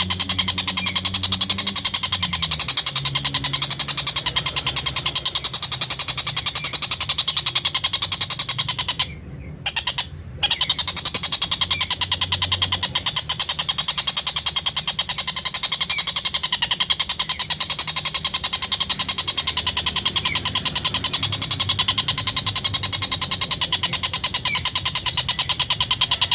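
Stork-billed kingfisher giving its rapid cackling 'ngekek' call, a fast unbroken chatter of sharp notes that drops out briefly about nine seconds in, over a low background rumble.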